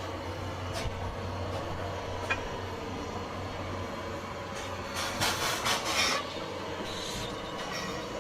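Train running on the track: a steady low rumble, with a cluster of rattling clacks about five to six seconds in.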